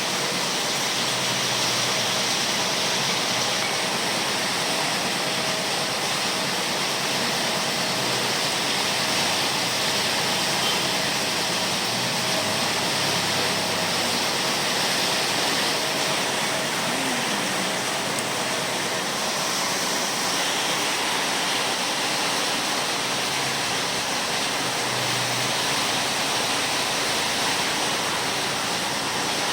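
Rain falling in strong wind, a steady unbroken rush of noise.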